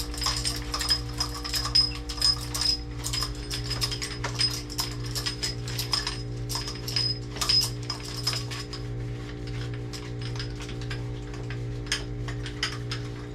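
A steady low electrical hum with many light clicks and taps scattered throughout.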